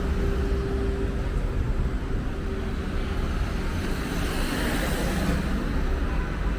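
City street traffic: a vehicle engine hums and fades out about halfway through, then another vehicle swells past near the end, over a steady low rumble.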